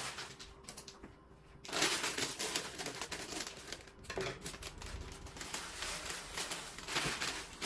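Plastic food packets and storage containers being handled: crinkling and rustling with quick, irregular small clicks. The handling is lighter for the first second or two, then busier.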